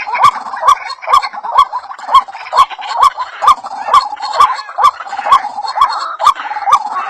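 White-breasted waterhen (ruak-ruak) calling in a fast, steady series of short rising notes, a little over two a second, each with a sharp click. It is a lure recording played to draw waterhens in.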